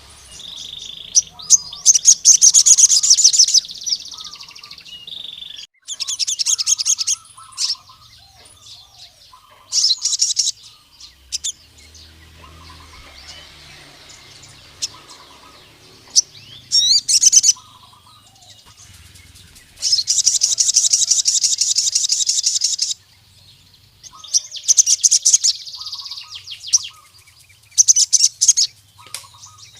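Male sogon (crimson sunbird) singing in bursts of very fast, high-pitched trills with short pauses between them, the longest burst lasting about three seconds; this is the full song used to call up a rival male.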